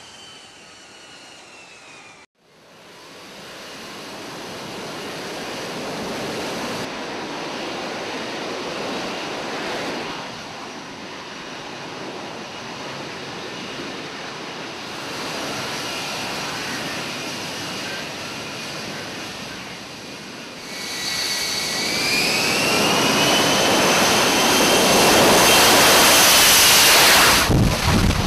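F-35B fighter's jet engine: a rushing jet noise that cuts out briefly a couple of seconds in, then builds steadily. About three-quarters of the way through a high whine rises in pitch over it and the noise grows to its loudest, as with an engine spooling up to high power.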